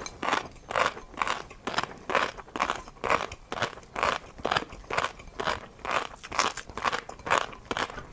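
Close-up chewing of tobiko (flying fish roe) with a crunchy seafood topping: steady, rhythmic crunching about twice a second.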